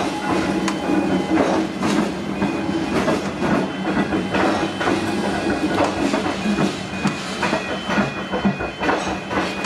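Comeng electric suburban train running past, its wheels clattering over rail joints in an irregular clickety-clack over a steady rumble and hum.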